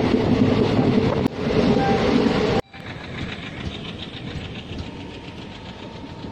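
Running noise of an Indian Railways sleeper train heard from inside the coach, loud and dense. About two and a half seconds in it drops abruptly to the quieter sound of the sleeper coaches rolling past along the platform, with faint clicks of the wheels.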